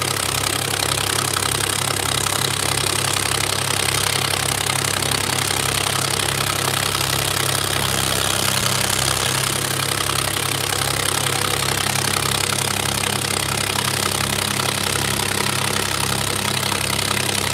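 Diesel tractor engine running steadily at idle, with an even low throb of about two pulses a second.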